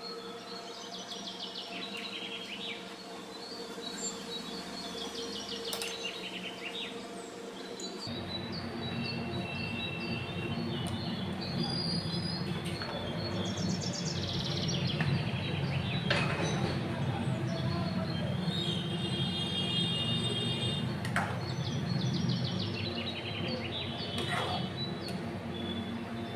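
Birds chirping in repeated short falling calls over steady background noise, which changes abruptly about eight seconds in.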